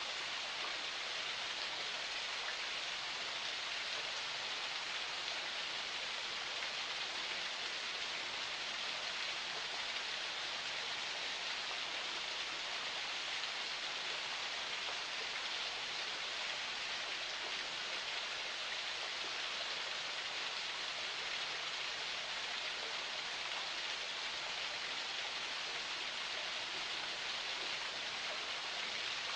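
Water of a small forest spring flowing steadily, an even, unbroken rush.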